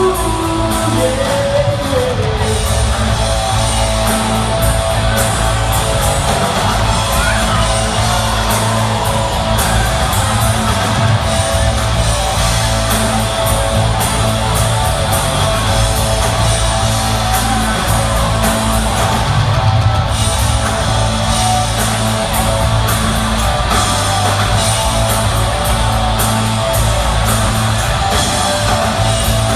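Live rock band playing loud in a concert hall: electric guitars over a steady drum beat, with some singing.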